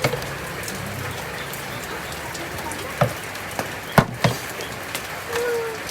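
Steady rain falling, an even hiss of raindrops on surfaces, with a few sharp knocks about three and four seconds in.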